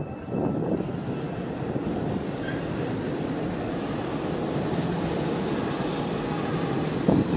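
Hanshin Railway electric train running along the tracks close by: a steady rolling noise of wheels on rails that starts about a third of a second in and holds level.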